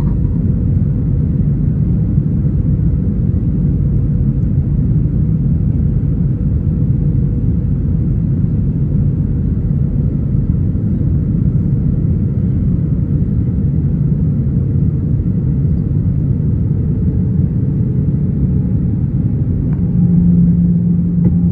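Airbus A320 cabin noise heard from a window seat: a steady, loud rumble of the jet engines and airflow. A steadier low hum joins near the end.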